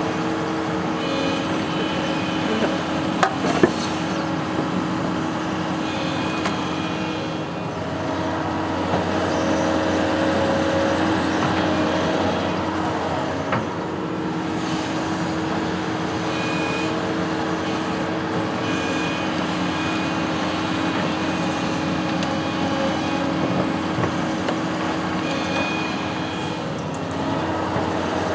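Engine of a construction machine running steadily under test operation, with a couple of sharp clicks about three seconds in.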